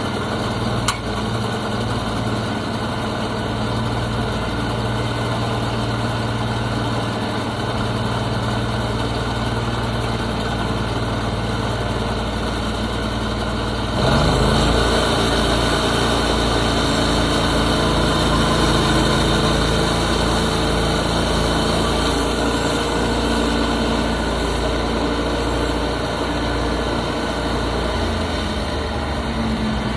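Portable sawmill's engine running steadily. About halfway through, the sound steps up louder and rougher and stays that way, as the mill works the walnut log.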